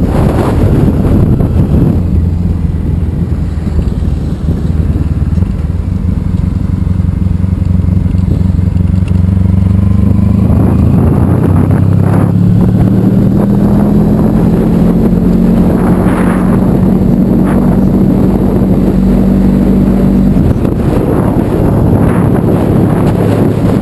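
Honda ST1100 Pan European's V4 engine running under way, with wind rushing over the microphone. The engine note rises about ten seconds in, holds steady, then drops suddenly near the end.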